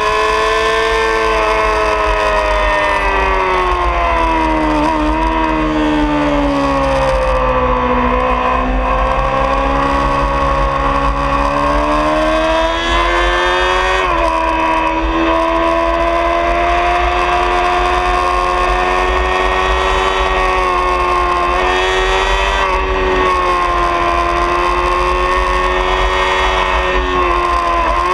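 Honda CBR600RR's 599 cc inline-four engine at high revs, heard from onboard with steady wind rush. The engine note drops over the first several seconds as the bike slows for a corner. It then rises again, with a sudden step in pitch about halfway through, and holds high as the bike drives on.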